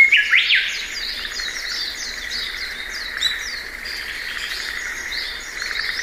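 Birdsong: several birds chirping in quick, overlapping high calls, with a louder sweeping call just after the start.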